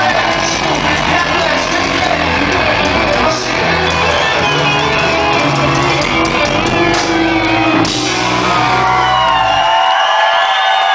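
Rock band playing live in a large hall, loud and full with a heavy bass, while the crowd shouts and whoops along. The band stops about ten seconds in, leaving the crowd cheering.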